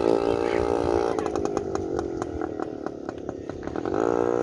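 A small motorbike engine running close by, its pitch dropping away and then climbing again near the end as it revs, with a run of sharp clicks in between.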